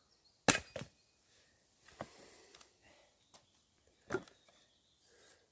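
Wood being handled for a campfire: four sharp woody knocks and cracks, the loudest about half a second in, with faint rustling between them.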